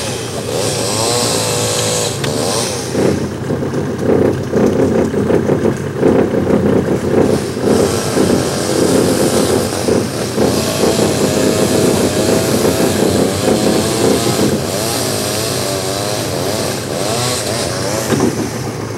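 A motor engine running continuously, its pitch rising and falling as the revs change.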